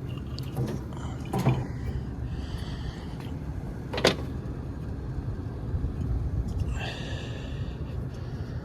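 Rooftop HVAC unit running in heat mode with a steady low rumble, while a few short metal knocks and clanks from handling the unit sound over it, the sharpest about four seconds in.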